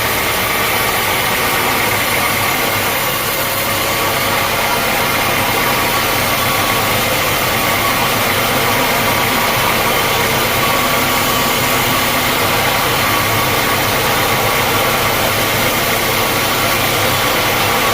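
Sawmill machinery running steadily: a loud, even mechanical noise with a faint steady hum in it.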